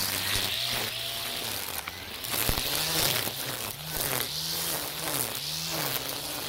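Makita 40V cordless brush cutter spinning nylon trimmer line through dense weeds. The motor's whine dips and recovers about once a second as the line bites into the growth, over a hissing of cut grass.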